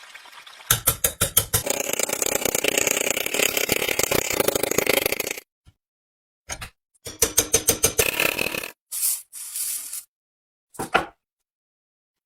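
Rusty steel pliers being worked by hand: bursts of rapid scraping strokes, several a second, with sharp clicks between. Each burst stops suddenly, leaving dead silence.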